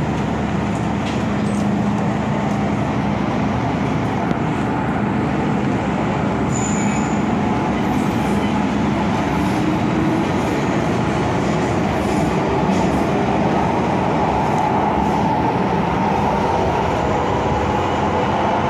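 An MTR M-Train electric metro train running between stations, heard from inside the carriage: a steady rumble of wheels on rail and running gear, with a humming tone that grows stronger in the second half.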